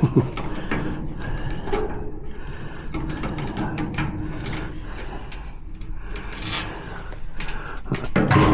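Clicks, knocks and scrapes of a garage door lock cylinder being worked by hand in its housing, which does not pull out because the cam on its back holds it in.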